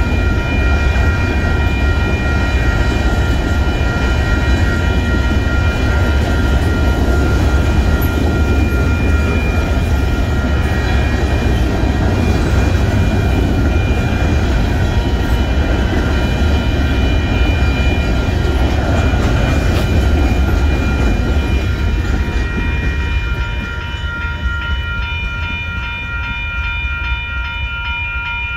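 Union Pacific grain train of covered hopper cars rolling past a grade crossing, a steady heavy rumble of wheels on rail, while the crossing signal bell rings. The rumble dies down about three-quarters of the way through as the last cars clear, leaving the bell ringing on its own.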